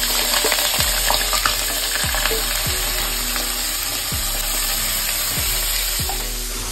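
Freshly added sliced onion, ginger and green chillies sizzling steadily in hot oil in a non-stick kadai, stirred with a wooden spatula.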